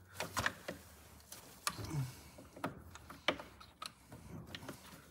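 Screwdriver prying at a plastic retaining clip: a string of light, irregular clicks and ticks as the tip works against the plastic.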